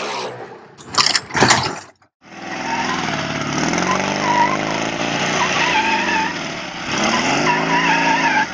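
Motorcycle engine running and being revved, its pitch swelling up and down several times. About a second in, two loud noisy blasts come just before a brief break in the sound.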